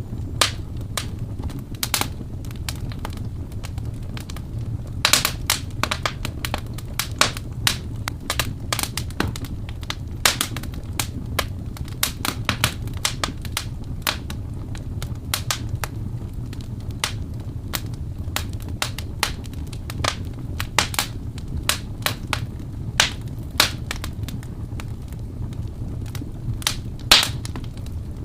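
Wood fire in a fireplace crackling, with sharp irregular pops several times a second over a steady low rumble; one louder pop near the end.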